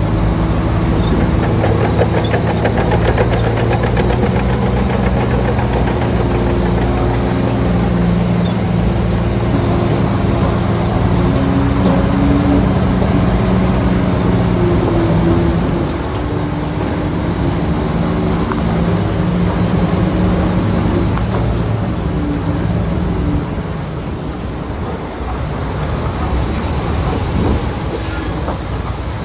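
Heavy diesel earthmoving machinery running steadily, with a rattling clatter over the engine note; it eases off somewhat about halfway through.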